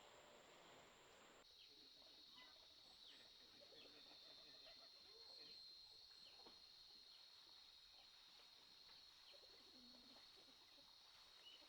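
Faint bird calls: short chirps scattered throughout, over a steady high-pitched hum that starts about a second and a half in.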